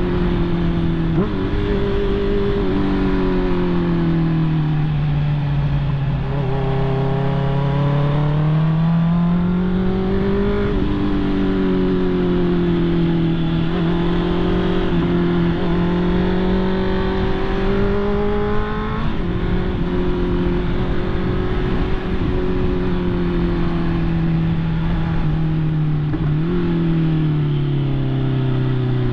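Honda CB650R's inline-four engine running under way, its note slowly climbing and dropping as the revs change, with a few sudden steps in pitch along the way.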